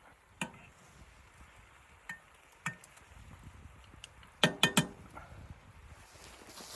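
A few sharp clinks and knocks of hard objects, the loudest a quick run of three about four and a half seconds in, some with a brief ring.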